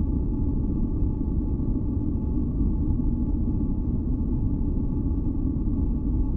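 Steady low, deep rumbling noise with no breaks, its energy sitting mostly in the bass and dying away above the midrange, with a faint steady hum of tones near the middle, from a synthesized white-noise sleep track.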